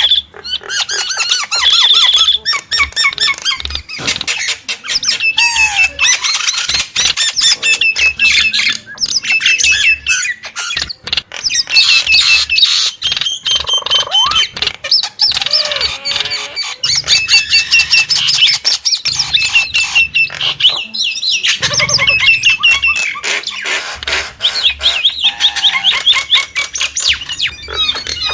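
Nias hill myna calling in a long, varied run of loud whistles, squawks and sharp clicks, with quick notes gliding up and down in pitch.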